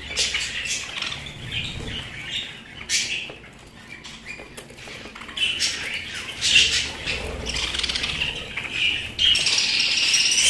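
Pet budgerigars chirping and chattering in quick, overlapping short calls, with a louder, unbroken warble near the end.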